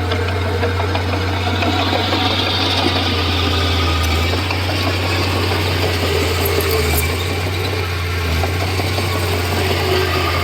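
Komatsu D31P bulldozer's diesel engine running steadily with a deep, constant drone.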